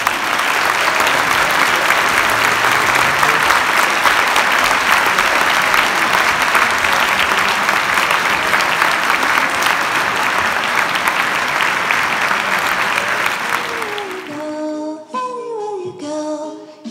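A large audience applauding steadily. The clapping fades out about 14 seconds in, as music starts.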